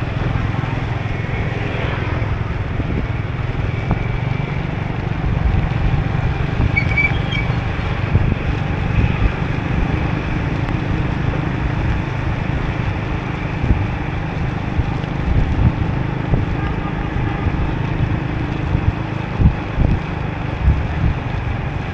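Motorbike riding on a rain-wet road, heard from a camera on the bike: steady engine and tyre hiss under low wind buffeting on the microphone, with a few louder gusts near the end.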